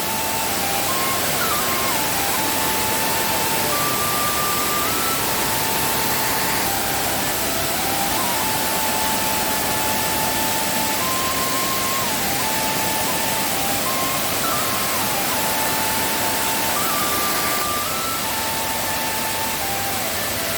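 Waterfall in flood, its rushing water making a steady, loud roar. A thin, simple tune of held notes stepping up and down runs faintly over it.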